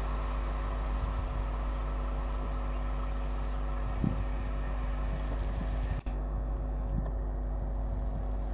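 Steady rumbling noise and a constant hum from an electric multiple unit local train running away into the distance. The sound breaks off for a moment about six seconds in.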